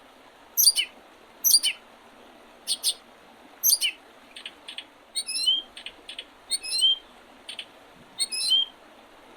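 Small songbird singing: short, high notes that sweep down in pitch, repeated about once a second, with the phrases turning more complex and ending in a rising note in the second half.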